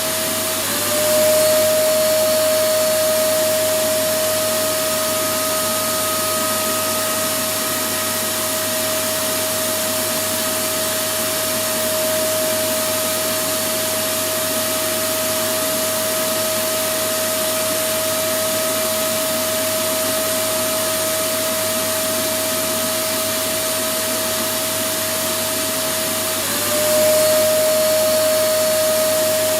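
Electric vacuum cleaner running continuously: a steady rushing noise with a motor whine. The whine dips briefly in pitch and the sound grows slightly louder about a second in and again near the end.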